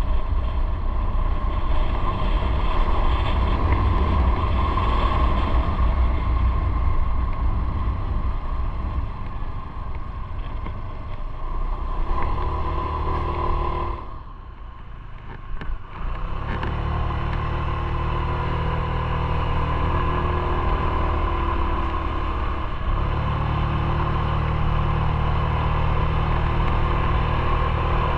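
Motorcycle engine running steadily under way, with wind noise. About halfway through the sound drops away for a couple of seconds, then comes back at a steady level.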